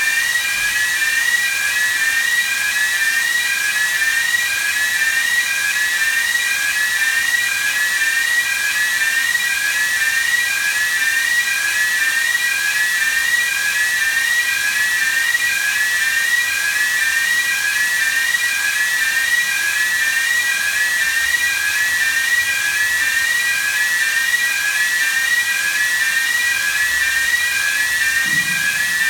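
Pressurizing air rushing into the engine room in a steady, loud hiss, with a whistling tone that rises over and over, about three times a second.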